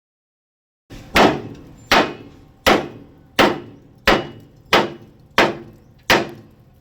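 Hammer blows striking a steel truck chassis frame to straighten it: a steady series of about eight evenly spaced strikes, roughly one every 0.7 seconds, each ringing briefly. They begin about a second in.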